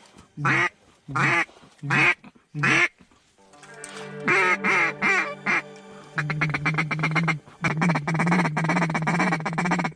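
Duck quacking. Four separate quacks, each falling in pitch, come in the first three seconds. From about three and a half seconds on there is a fast, continuous run of chattering quacks, like a feed chuckle.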